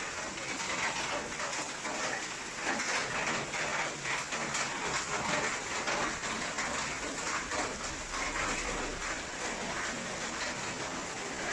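Water spattering steadily onto a hard surface, a dense patter of many small drops.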